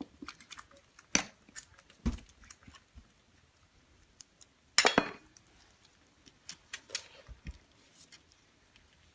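Kittens eating from food bowls: scattered small clicks and slurping sounds, with a louder clatter of a bowl about five seconds in.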